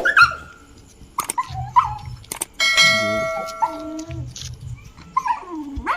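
A dog yelping and whining in short bending calls, with a bell-like ding ringing out for about a second midway, over a low repeating beat.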